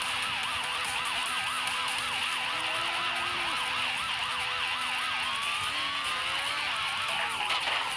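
Emergency vehicle siren warbling rapidly up and down, about three to four cycles a second, with a brief upward slide a little past the middle before the warble resumes.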